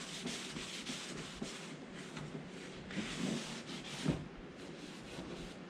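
Terry cloth wiping over a plastic headlight lens, a soft rubbing noise that swells about three seconds in, with a light knock about a second later.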